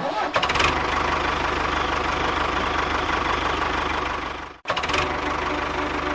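Small engine running steadily with a fast, even knocking pulse; it cuts off abruptly about four and a half seconds in and comes straight back.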